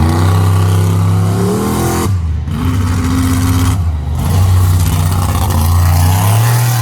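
Monster truck engine revving hard. The pitch climbs over the first two seconds, then the throttle snaps shut briefly, and it revs again, with another short lift near four seconds in.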